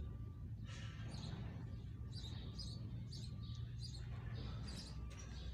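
Small birds chirping, short high calls a couple of times a second, over a steady low hum.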